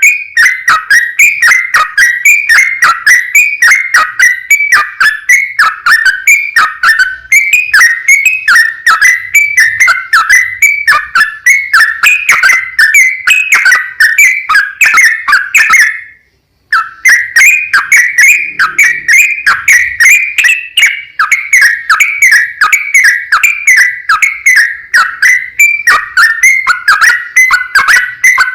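Yellow-vented bulbul (trucukan) singing a long, unbroken run of rapid, repeated whistled phrases, each sweeping down in pitch. About two-thirds of the way through the song cuts out abruptly for half a second, then resumes.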